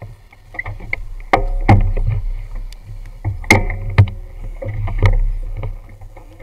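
Motorcycle engines running low while the bikes move off slowly, with scattered sharp knocks and taps close to the mounted camera.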